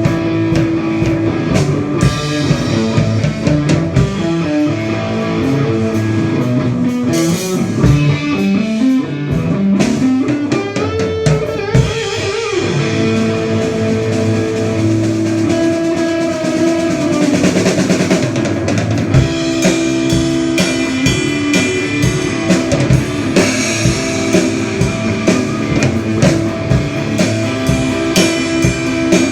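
Rock band playing an instrumental passage at a sound check: electric guitar over a drum kit, with a run of guitar notes climbing in pitch about ten seconds in.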